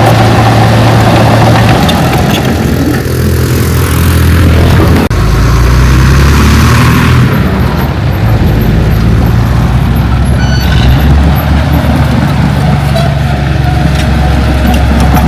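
Heavy diesel earthmoving machinery running steadily, with an abrupt change about five seconds in.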